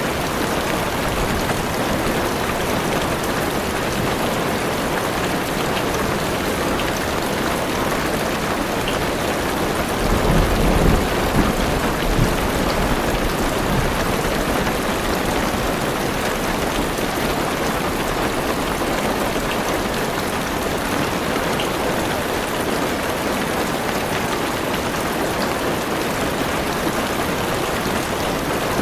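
Heavy rain pattering steadily on a car roof and windows. About ten seconds in, a low rumble of thunder swells for a couple of seconds.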